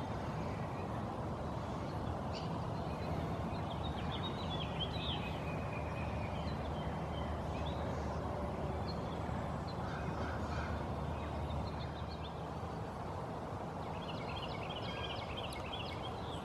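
Outdoor ambience: a steady background hiss with faint, scattered bird chirps and calls, a cluster of them a few seconds in and again near the end.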